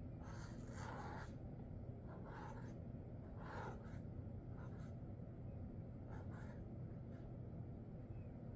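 Sharpie Creative Marker tip scratching across paper in a series of short drawing strokes, about six in all, over a low steady hum.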